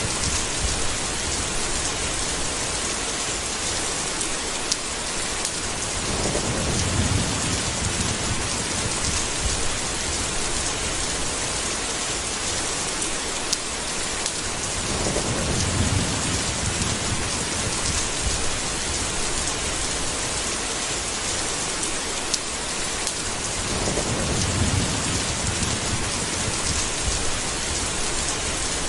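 Steady heavy rain hissing, with low rolls of thunder swelling about every nine seconds, three times.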